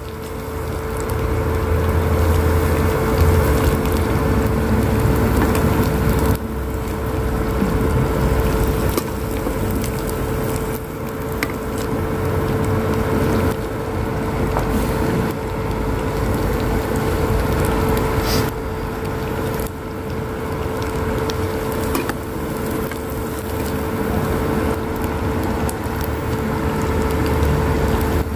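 A rice cracker (rengginang) sizzling and bubbling in hot oil in a frying pan, pressed down with a metal spatula now and then. A steady hum from the induction cooker runs underneath.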